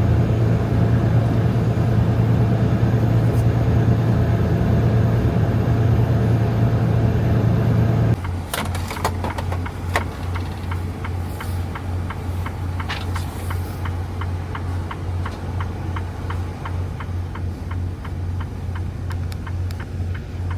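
Semi-truck diesel engine heard from inside the cab, a loud steady drone. About eight seconds in it switches abruptly to a quieter low idle with a steady ticking, about two clicks a second.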